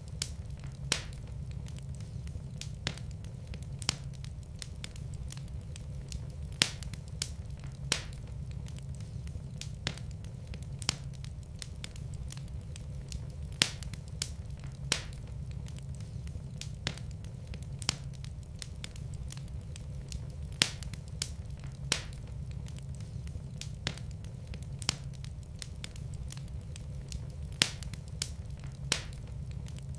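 Wood fire burning in a fireplace, with sharp irregular crackles and pops over a steady low rumble of flame.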